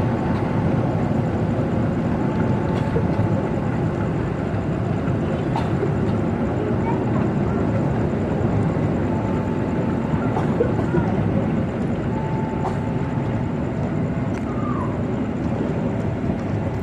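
Diesel-hauled passenger train running past with a steady rumble.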